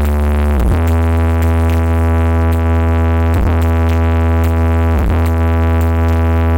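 Electronic dance music played very loud through a large 'sound horeg' sound system, with heavy sustained bass notes that slide down into a new pitch every couple of seconds.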